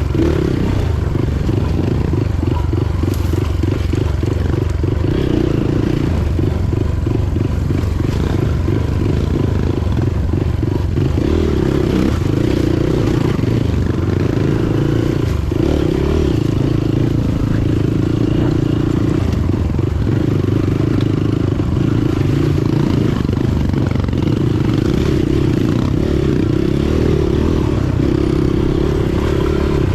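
Motorcycle running at a steady pace while being ridden, a continuous loud low rumble.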